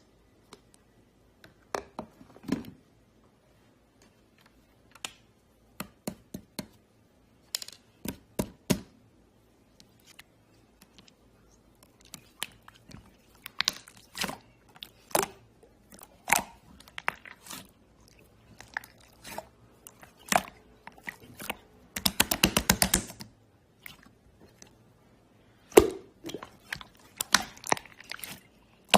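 Blue slime being squished and pressed by hand, giving scattered wet crackles and clicks, with a quick run of rapid pops about three-quarters of the way through.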